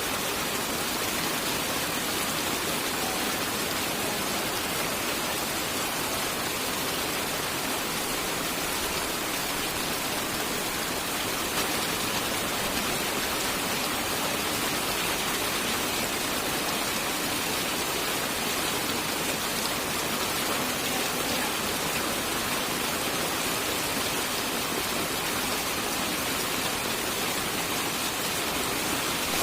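Steady rain falling, an even hiss that neither builds nor breaks, with no thunder.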